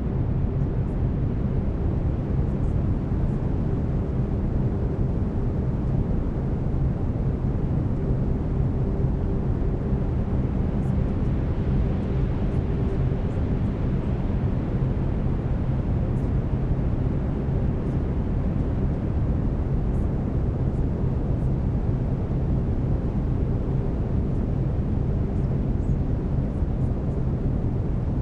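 Steady brown noise: a deep, even hiss strongest in the bass and dull in the treble, with faint low steady tones of binaural delta-wave beats beneath it.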